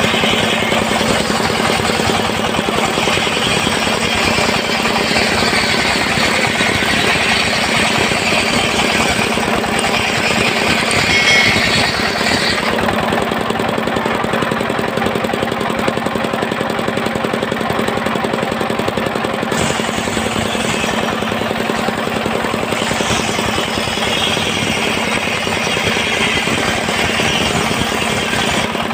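Homemade engine-driven circular sawmill running steadily while its blade saws a small log, the cutting noise heavier for the first dozen seconds and again from about two-thirds of the way through.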